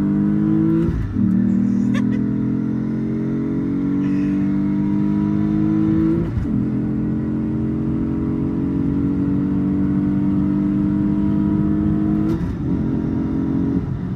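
Lexus IS with a manual gearbox accelerating hard on a drag-strip pass, its engine note climbing steadily through each gear. There are sharp drops at gear changes about a second in, about six seconds in and again about twelve seconds in. After the last change the engine holds a steady note and then falls away near the end.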